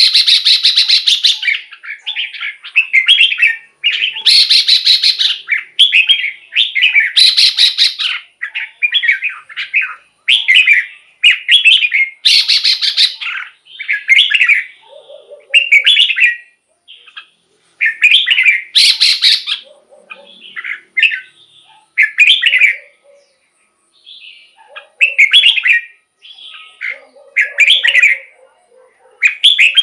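Red-whiskered bulbul singing loud, short whistled song phrases about a second long, repeated with brief pauses, some phrases with a harsh buzzy edge.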